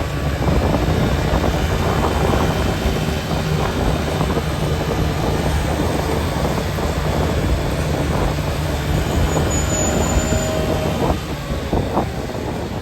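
Steady rumble of a vehicle driving along a road, with scattered light knocks and rattles.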